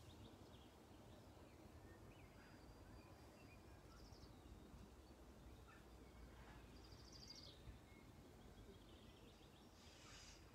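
Near silence: faint low background noise with a few brief, high bird chirps spread through it.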